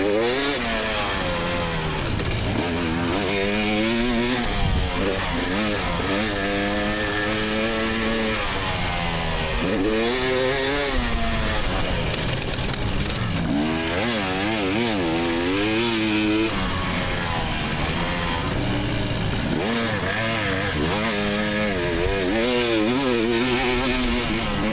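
Two-stroke engine of a 2024 GasGas EX300 dirt bike revving up and down again and again as the throttle is opened and shut while riding.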